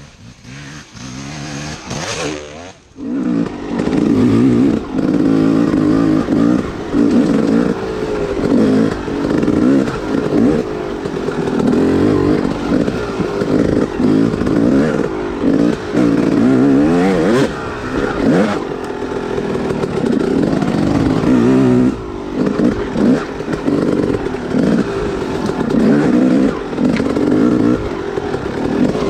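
Yamaha YZ dirt bike engine revving up and down as it is ridden on a trail, the note rising and falling with the throttle. It comes in faint and builds to full loudness within the first few seconds, with a brief drop in the engine note near the middle.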